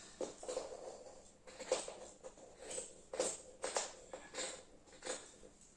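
Cut fabric being handled and spread out, rustling in a series of short, irregular swishes.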